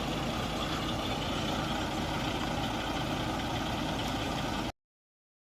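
Steady hum of idling bus diesel engines, cutting off abruptly to silence near the end.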